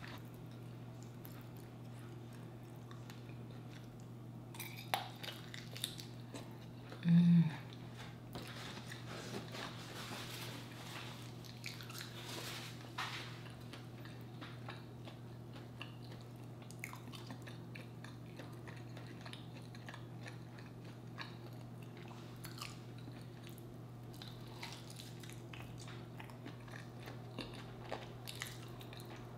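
Close-up eating sounds of chicken wings being bitten and chewed, with scattered small crunches and clicks over a steady low hum. A brief, louder low sound comes about seven seconds in.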